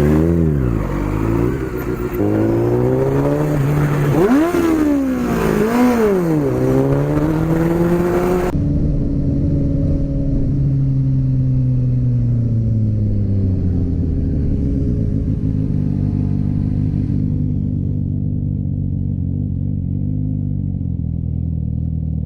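Motorcycle engine revving, its pitch rising and falling sharply several times as it accelerates and backs off. About eight seconds in the sound changes abruptly to a steadier engine note that slowly drops in pitch and then holds.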